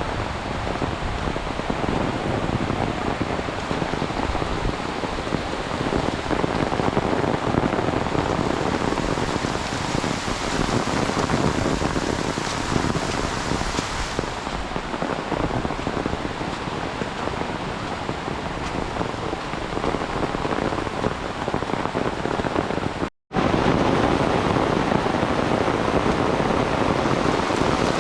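Heavy rain pouring steadily, a dense even hiss of rain on surfaces. It cuts to silence for a split second about 23 seconds in, then carries on as before.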